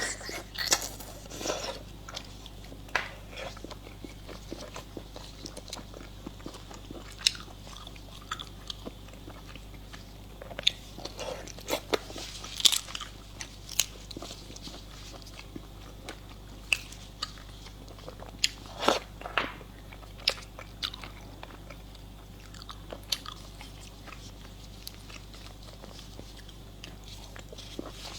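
Close-miked eating: a person biting and chewing something firm, with irregular crunching clicks and crackles.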